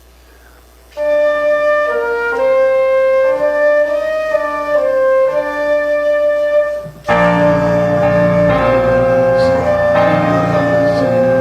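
Instrumental church music: a single flute-like melody line played alone, then piano chords with a bass line joining about seven seconds in, noticeably louder.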